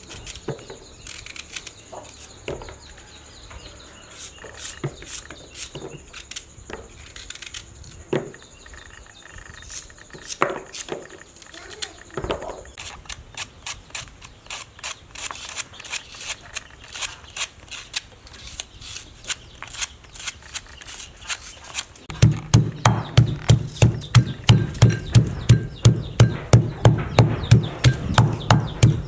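Kitchen knife chopping on a cutting board, a steady run of strokes about two or three a second that starts about three-quarters of the way in and is the loudest sound. Before it, scattered light clicks and taps of food being handled.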